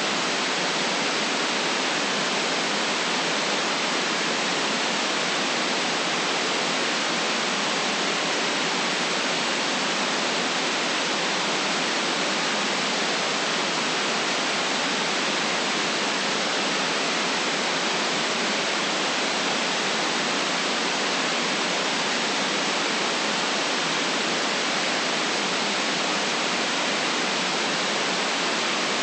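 White noise: a steady, unchanging hiss.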